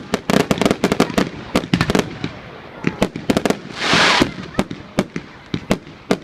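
Fireworks display: rapid, irregular cracks and bangs from bursting shells and cakes, densest in the first second or so, with a loud hissing burst about four seconds in.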